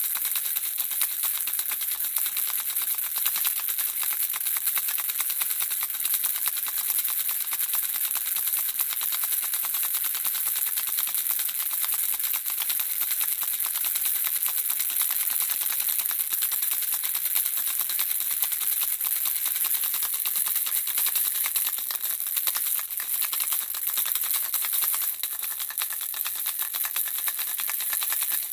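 Handheld baby rattle shaken without pause, the small objects inside making a dense, steady, high-pitched stream of tiny clicks, dipping slightly in level near the end.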